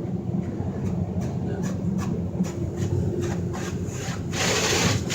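Ryko SoftGloss XS2 rollover car wash machinery humming with scattered ticks, heard from inside the car; about four seconds in, a loud hiss of water spray starts hitting the car.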